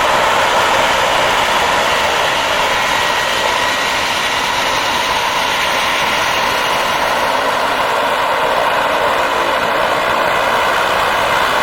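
Steady, loud running of a de Havilland Canada Dash 7's four turboprop engines, an even rush with no change in pitch.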